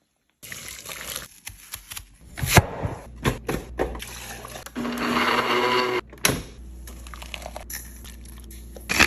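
Kitchen food-preparation sounds: several sharp clicks and knocks of utensils or containers, and about five seconds in a loud rush of liquid lasting just over a second.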